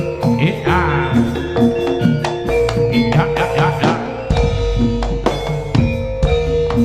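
Live jaranan accompaniment in the Javanese gamelan style: drum strokes over ringing gong-chime and metallophone notes, with a wavering melodic line near the start.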